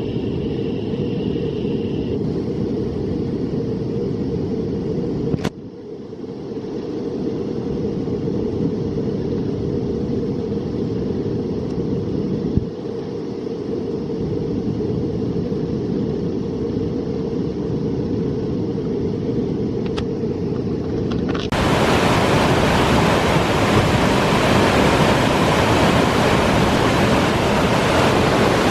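Whitewater of a steep mountain torrent rushing steadily. For most of the stretch only its low rumble comes through, muffled. About three-quarters of the way in it switches abruptly to the full, louder hissing rush of the rapids.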